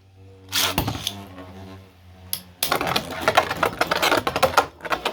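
Spinning 3D-printed Beyblade tops humming in the stadium, then a fast rattle of clicks from about two and a half seconds in as they clash again and again.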